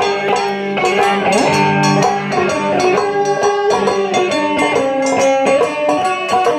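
Tsugaru shamisen played live in a fast run of plucked notes, over drum hits.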